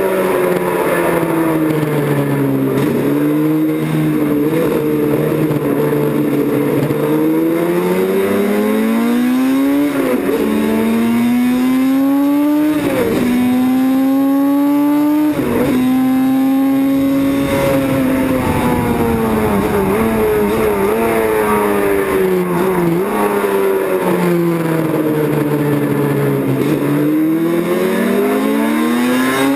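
Racing motorcycle engine heard continuously at full song. Its pitch climbs and drops sharply three times around the middle as it shifts up through the gears, then sinks in steps as it slows, and climbs again near the end.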